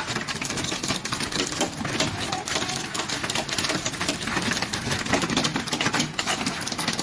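Hailstones pelting a hard surface: a dense, rapid, irregular clatter of small impacts.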